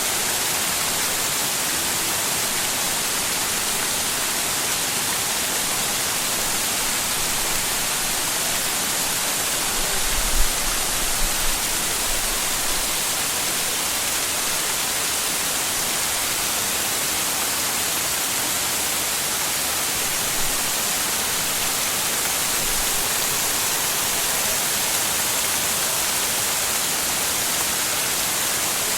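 Waterfall: a steady, unbroken rush of falling water splashing down, with a few brief low bumps of rumble about ten seconds in.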